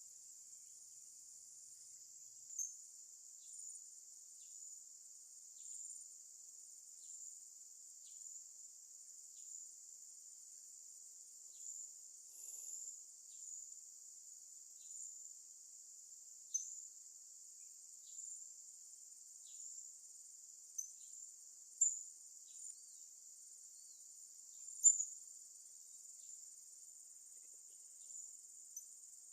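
Steady high-pitched chirring of crickets, pulsing softly about once a second, with a few sharp, brief high chirps cutting through, the loudest near the end.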